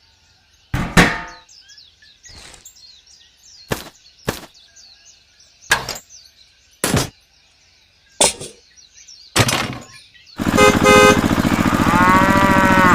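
A series of sharp knocks, one every second or so, with birds chirping faintly behind. About ten seconds in, a loud, steady sound with several pitches takes over, with a tone that rises and falls near the end.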